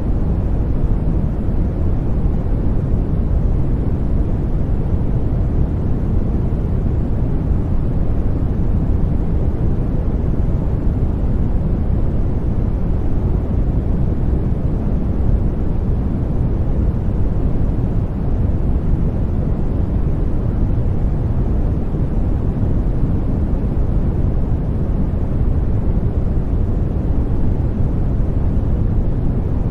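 Steady, deep rushing noise from a sleep white-noise track, heavy in the bass with little hiss at the top, unchanging throughout.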